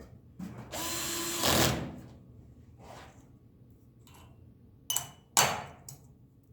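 Drill/driver, set to low speed and low torque, runs for about a second, driving a screw into thin sheet metal. Near the end come two sharp knocks about half a second apart.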